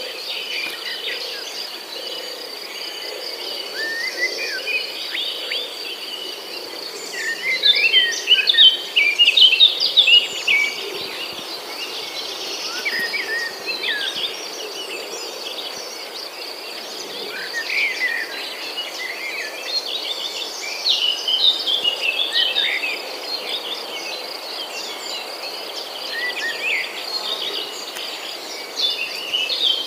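Small birds chirping and calling, several at once, in repeated busy flurries, over a steady thin high-pitched tone.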